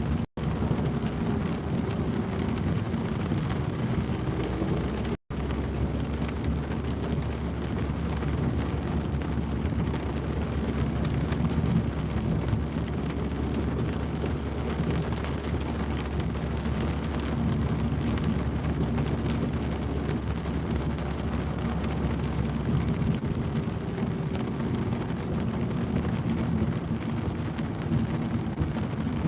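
Steady rain falling in a city street with a constant rumble of traffic; the sound cuts out for an instant twice in the first few seconds.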